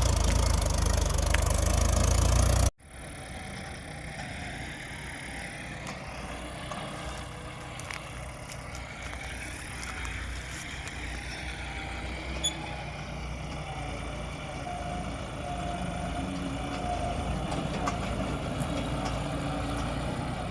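A loud rushing noise that cuts off suddenly near the 3-second mark, then a Mahindra 475 diesel tractor engine running steadily.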